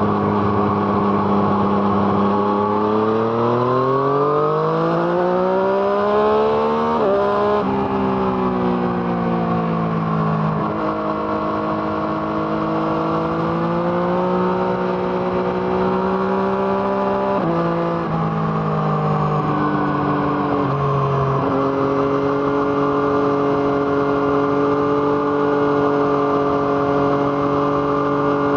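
Yamaha MT-09's three-cylinder engine through an Arrow Thunder exhaust, accelerating hard through the gears. The engine note rises steadily and drops sharply at each upshift. After a few more shifts it settles into a steady cruise.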